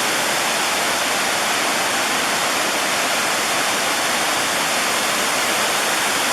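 Water pouring steadily over a small waterfall, a loud, even rush.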